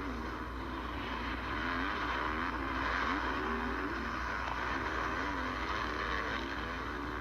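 Motocross bike engine revving up and down over and over, its pitch rising and falling about once a second as the rider works the throttle on the track.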